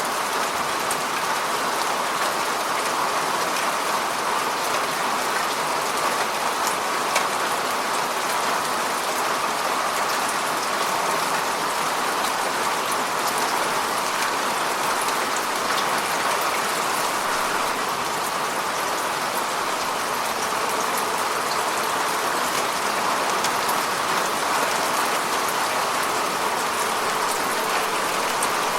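Heavy rain falling steadily, a dense even hiss of rain with fine drop patter.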